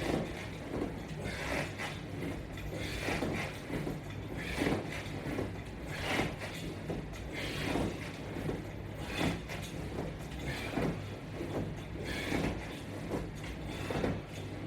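A person doing sit-ups with feet held by resistance straps on a mat: a repeating rustle-and-creak of body, mat and straps, about one repetition every second and a half, over a steady low hum.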